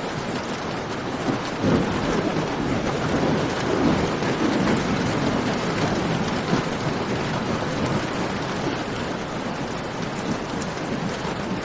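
Steady heavy rain falling in a cave, mixed with the fine crackle of a campfire. A low rolling rumble swells about two seconds in and eases off over several seconds.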